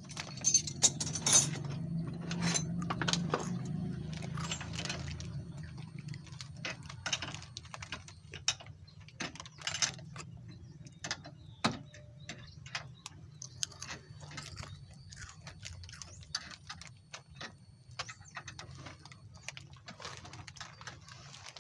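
Irregular metallic clicks, clinks and taps, as of hand tools and parts being handled on a machine under repair, densest in the first few seconds, over a low steady hum.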